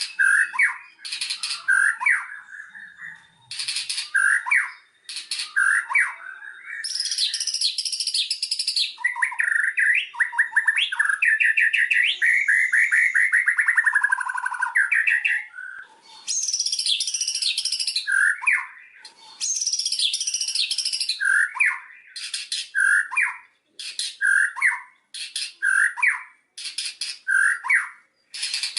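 White-rumped shama (murai batu) singing a varied song of loud whistled phrases and fast chattering trills. About midway a long run of notes slides downward, and near the end the song breaks into short phrases about once a second.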